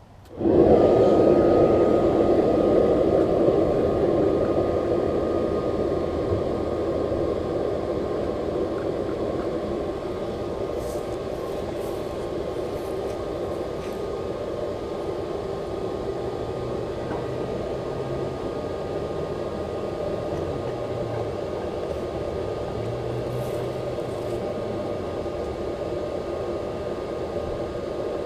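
Hairdryer switched on about half a second in, spinning up quickly and then running steadily as the blower for a charcoal furnace: a loud rush of air with a steady whine on top. It is loudest just after it starts and eases off a little over the first ten seconds.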